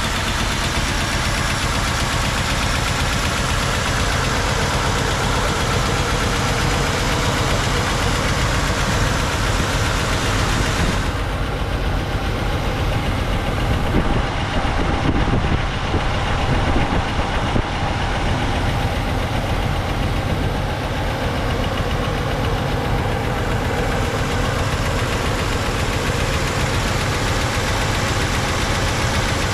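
1985 Mercedes-Benz 380SL's 3.8-litre V8 idling steadily moments after a cold start. The sound turns duller about eleven seconds in.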